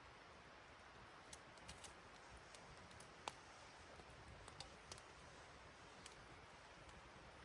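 Near silence with faint, irregular small clicks and crackles over a quiet hiss, one sharper tick about three seconds in.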